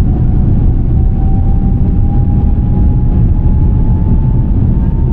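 Jet airliner accelerating on its takeoff run: a loud, steady low rumble with a thin engine whine rising slowly in pitch.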